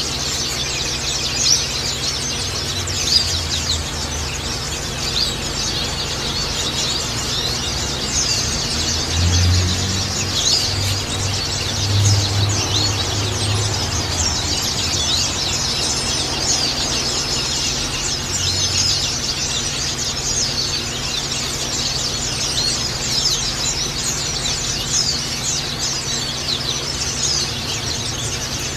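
A colony of white-eyes (pleci) chirping, many short high calls overlapping without a break. A low rumble comes in about nine seconds in and fades out around fourteen seconds.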